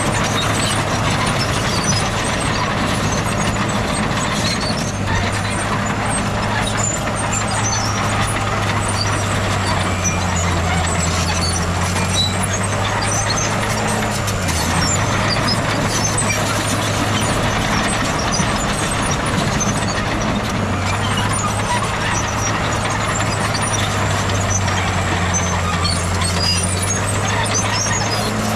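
Heavy diesel engine of earthmoving machinery running steadily under load, its pitch sagging briefly about halfway through as the load comes on.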